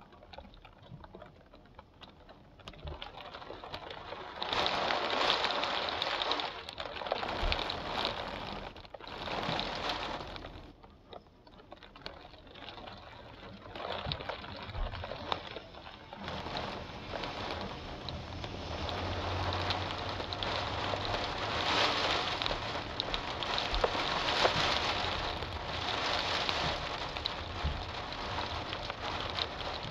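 Rain falling steadily, a rushing hiss that swells and fades in surges through the first ten seconds, then holds louder and more even.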